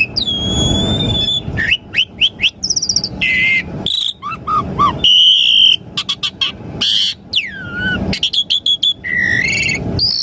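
Asian pied starling singing a varied, fast song: a long held whistle at the start, then quick chirps, rising and falling whistled glides and short harsh rasping notes, with a long falling whistle about seven seconds in.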